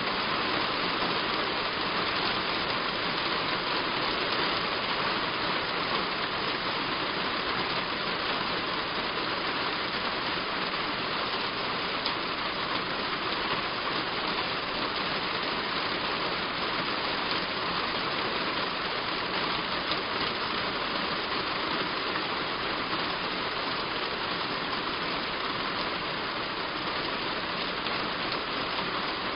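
Heavy rain falling on a roof: a steady, dense hiss of drops with no let-up.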